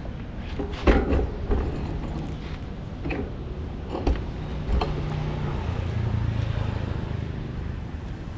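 Road and traffic noise on a ride: a steady low rumble with several sharp knocks in the first half, and a low steady engine hum for a couple of seconds past the middle.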